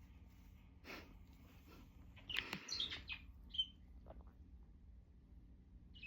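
Jenday conure making a few quiet chirps and chatters, with a short high chirp about three and a half seconds in.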